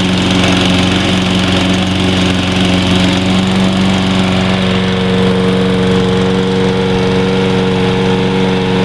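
Toro Recycler mower's 190cc Briggs & Stratton single-cylinder engine running steadily just after its first start, with a slight change in tone about halfway through.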